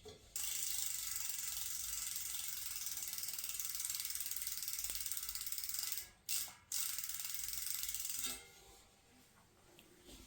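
Shimano Dura-Ace R9100 rear hub's freehub clicking rapidly as the wheel spins freely, a fast even buzz of pawls. It runs for about six seconds, stops briefly, then runs again for about a second and a half.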